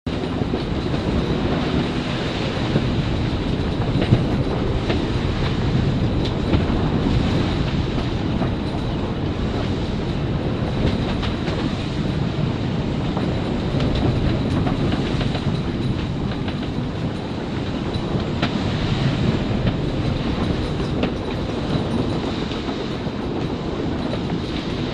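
Steady rushing noise of wind and sea aboard a sailing yacht in rough weather, with scattered sharp knocks.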